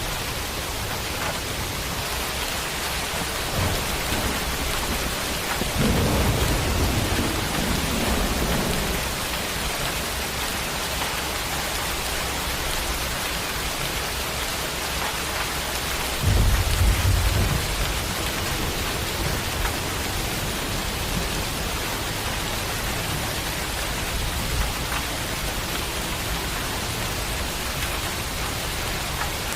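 Steady rain falling, with thunder rolling twice: a low rumble about six seconds in, and a louder, more sudden one about sixteen seconds in.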